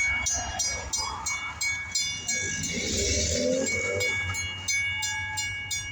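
Diesel locomotive engine of CSX 6358 running with a steady low rumble. A grade-crossing bell rings about three times a second over it, and a brief wavering, higher-pitched sound comes about halfway through.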